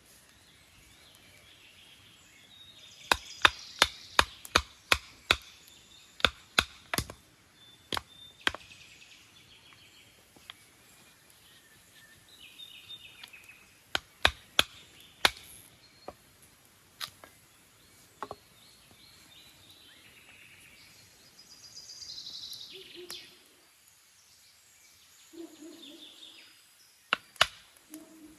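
Chopping with a blade: bursts of sharp strokes, about two or three a second, with pauses between runs. Birds chirp in the background.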